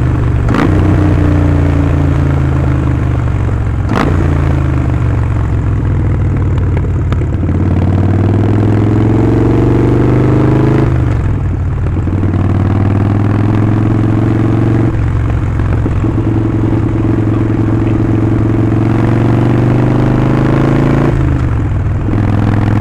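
Harley-Davidson Sportster Forty-Eight's 1200 cc V-twin running through a Vance & Hines slip-on exhaust while riding. The engine pulls with its pitch rising as it accelerates, and drops briefly at gear changes about halfway through, again a few seconds later, and near the end.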